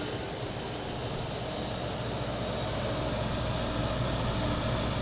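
Window air conditioner running, its Toshiba rotary compressor humming steadily under the rush of the fan, growing slightly louder across the stretch.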